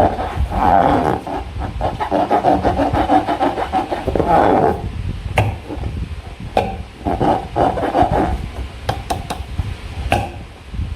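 Rubber balloon squeaking and creaking as it is rubbed and squeezed in hand, in three stretches with a few sharp clicks between them.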